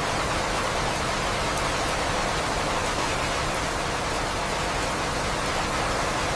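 Steady, even rain with no letup and no thunder.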